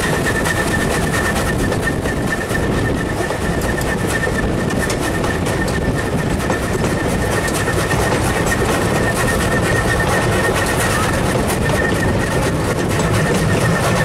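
Steam-hauled vintage train running along the line, heard from the carriage balcony: a steady, loud rumble and rush of wheels on track and air rushing past, with a thin high whine held throughout.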